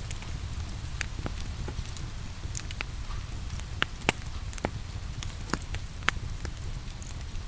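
Steady rain with a wood fire crackling: an even hiss and low rumble, with irregular sharp pops of burning logs a few times a second.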